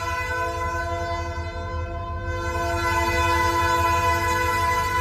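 A diesel locomotive horn holds a long, steady multi-note chord over the low rumble of the SD40-2 locomotives' engines. It gets louder about three seconds in.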